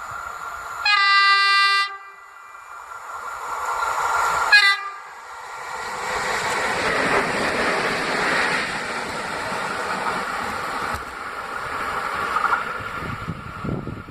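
Train horn sounding one blast of about a second, followed a few seconds later by a second short blast as the train draws near. The train then passes with a steady rumble of wheels on rails.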